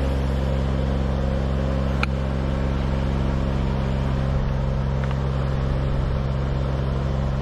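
A lift's engine running steadily at a constant speed, with a small click about two seconds in.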